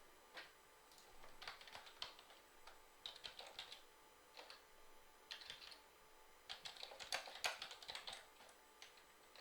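Faint computer keyboard typing in short, irregular bursts of key clicks.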